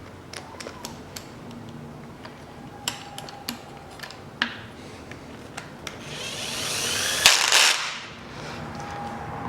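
Light metallic clicks and clinks of tools and parts being handled, then, about six seconds in, a power tool runs for about two seconds, speeding up and loudest just before it stops. It is most likely driving home a bolt while the crankshaft position sensor is being fitted.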